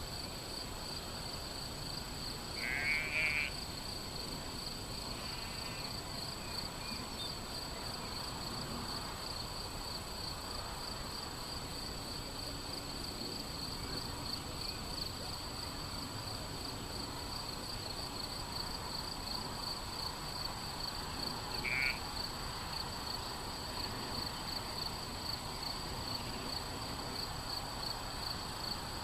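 Crickets chirring steadily in a rapid pulsing rhythm, with two short higher calls breaking through about three seconds in and again near the end.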